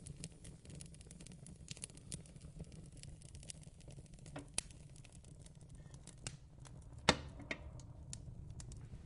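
Fireplace crackling: a steady low rumble under irregular sharp pops and snaps, with the loudest pop about seven seconds in.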